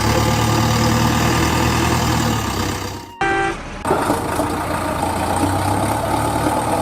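Tractor engine running steadily. About three seconds in it breaks off for a short beep, then the engine resumes.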